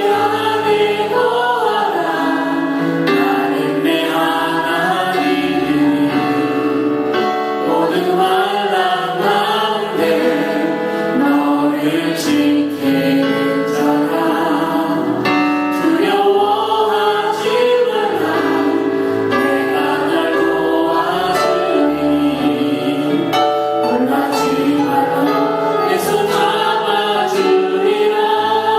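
Group singing of a Korean worship song, choir-like voices carrying the melody over steady instrumental accompaniment.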